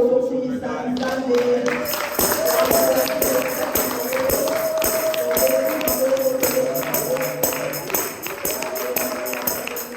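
Church worship music with a melody held over a steady beat, and a tambourine shaken in rhythm that comes in about two seconds in.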